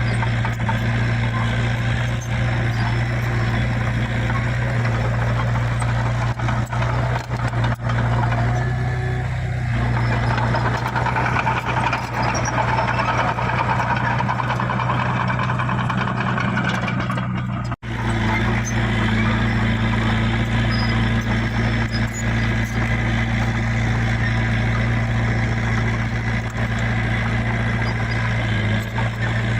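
Heavy diesel engine running steadily at a constant speed, with a brief cut-out about eighteen seconds in.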